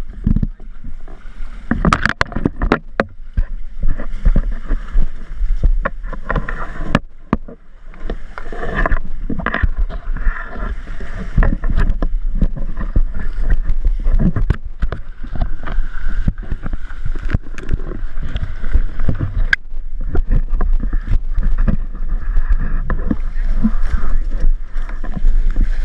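Wind buffeting the microphone and water rushing past the hulls of a Tornado catamaran under sail, with a constant low rumble and many irregular knocks and slaps.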